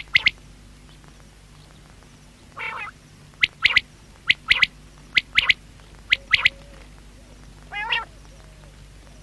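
Male common quail calling: a run of short, sharp, high three-note phrases repeated about once a second. Twice there is a longer, harsher note before a run.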